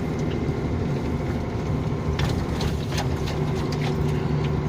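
KAMAZ truck's diesel engine running at a steady low drone, heard from inside the cab, with a few light knocks about two to three seconds in.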